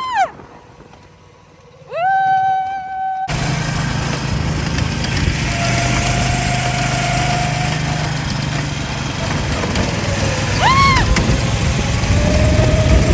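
Small go-kart engine running steadily as the kart is driven, coming in suddenly about three seconds in.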